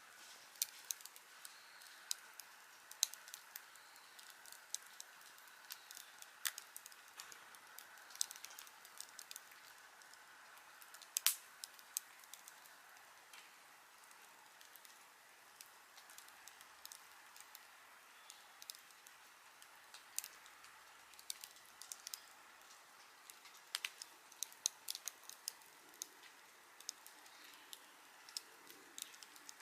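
Wood fire crackling: irregular sharp pops and snaps over a faint hiss, the loudest pop about eleven seconds in.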